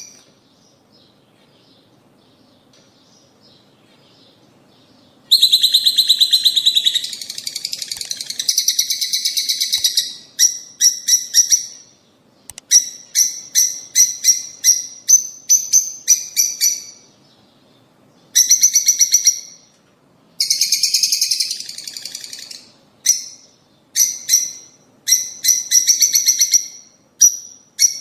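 Lovebirds chattering in clusters of rapid, shrill chirps, starting about five seconds in after a near-quiet opening and continuing in bursts with short pauses.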